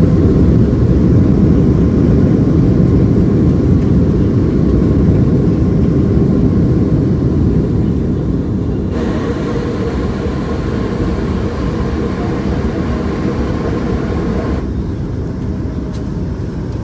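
Cabin noise inside a Boeing 757-200 with Pratt & Whitney PW2000 engines, on the ground after landing: a steady low rumble of engines and airframe that slowly eases off.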